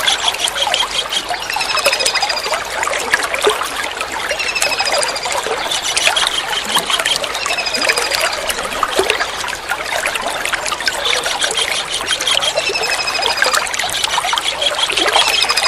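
Kingfisher calling in short, high, rapid trills repeated every two to three seconds, over steadily trickling water.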